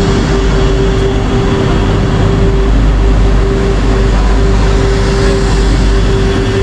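Passenger train running, heard from on board: a loud, steady rumble with a constant hum through it.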